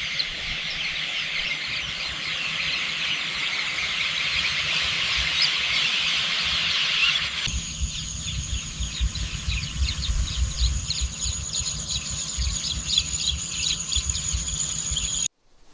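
Outdoor countryside ambience: a dense, high-pitched chorus of rapid chirping over a low rumble. About halfway through it changes abruptly to a different chorus with a steady high whine, and it cuts off suddenly just before the end.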